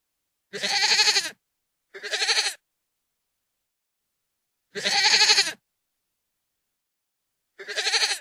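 Goat screaming: four loud, wavering bleats, each under a second long, with dead silence between them. The last is cut off at the end.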